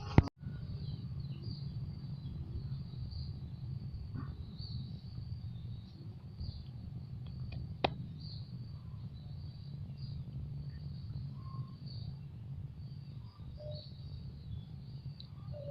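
Faint, scattered high bird chirps over a steady low rumble, with a sharp click just after the start and another about eight seconds in.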